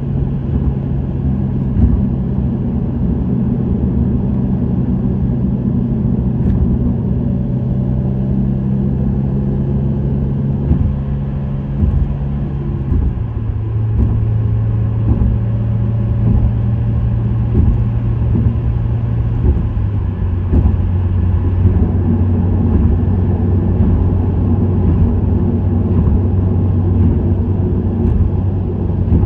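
Subaru WRX STI's turbocharged EJ20 flat-four, breathing through an STI Performance muffler, running at a steady cruise over road noise. The engine note steps down in pitch abruptly about halfway through, and again a few seconds later.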